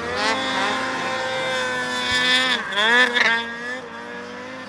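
Snowmobile engine revving, its pitch swinging up and down several times, then fading to a lower, steadier drone about three and a half seconds in.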